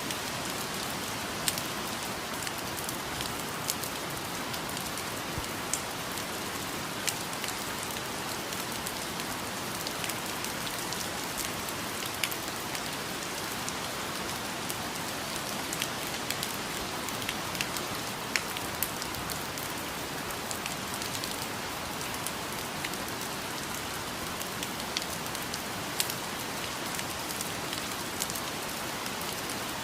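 Steady rainfall, a constant hiss with frequent individual drops tapping close by.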